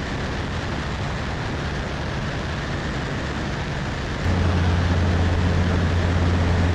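Steady cockpit drone of a Cessna 152 in flight: the four-cylinder Lycoming engine and propeller running with rushing air. About four seconds in, a strong steady low hum joins and the whole sound gets louder.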